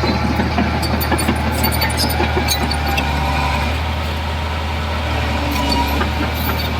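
Heavy construction machine's diesel engine running steadily: a constant low hum with light clicks and rattles over it.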